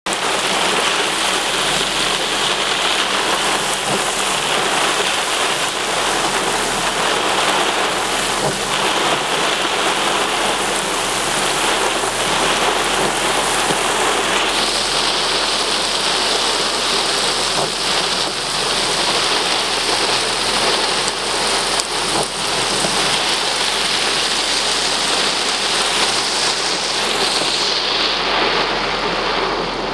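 Heavy rain from a severe thunderstorm pouring down in a loud, steady hiss.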